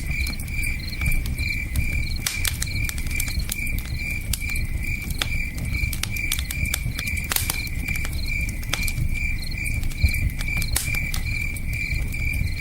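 Campfire crackling, with sharp pops scattered irregularly over a steady low rush. Crickets chirp in an even rhythm of about three chirps a second.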